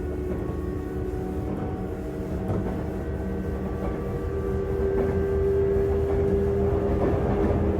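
Onboard running sound of a Sotetsu 8000 series electric train's motor car between stations: a low rumble of wheels on rail, with a steady whine from the traction motors that creeps slightly up in pitch.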